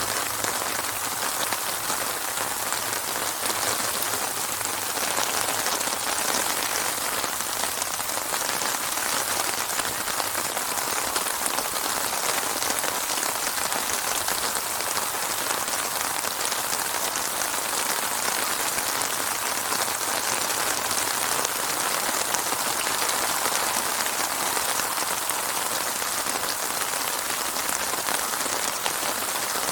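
Steady, heavy rainfall pattering on surfaces, with no thunder.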